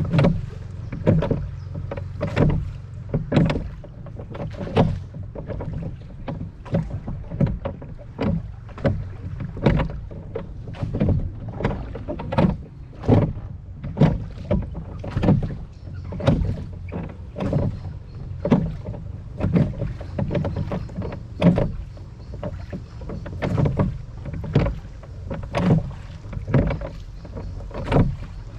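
Oars of a rowboat being pulled in a steady rhythm, each stroke a splash and knock about once a second. A steady low rumble of wind on the microphone runs underneath.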